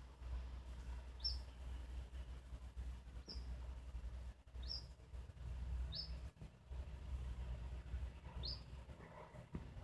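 A small bird chirping five times, short high chirps that each sweep quickly upward, spaced a second or two apart, over a steady low rumble.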